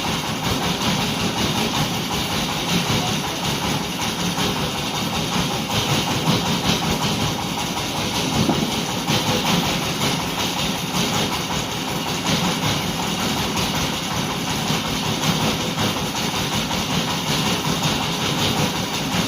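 An engine running steadily at an even pace, with a dense mechanical drone.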